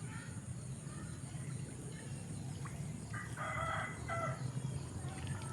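A rooster crows once, about three seconds in, a single call of about a second. Underneath run a steady low rumble and a faint, steady high-pitched pulsing buzz.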